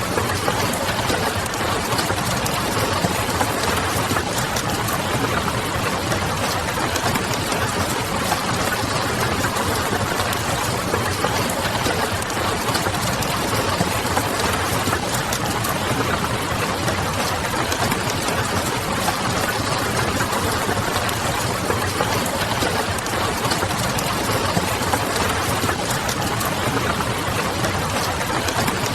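Steady hiss of rain on a window glass with the small, scattered clicks of a crackling wood fire throughout, over a low steady hum.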